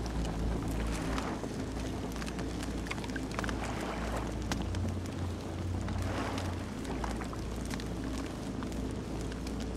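Campfire burning, with many small sharp crackles and pops over a steady low roar of the flames, and a few short hissing swells.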